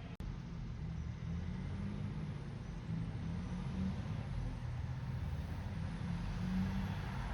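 Heavy truck's diesel engine running in a steady low rumble, its pitch drifting slightly as it goes by. The sound drops out for an instant just after the start.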